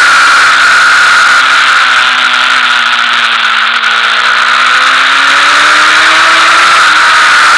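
Sport motorcycle engine at high revs, recorded on board over heavy wind rush. The revs sag slowly through a corner, then climb as the bike accelerates out, with a shift near the end dropping the pitch.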